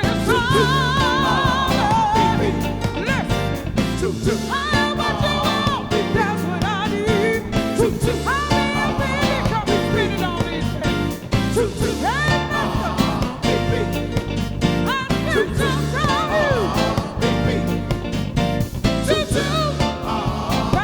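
Live soul band playing a song, with a lead melody line sung with vibrato and sliding notes over a steady bass and drum beat.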